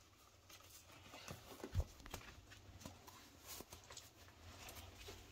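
Faint, scattered light knocks and clicks, about half a dozen, with the strongest a little under two seconds in, over a low steady hum.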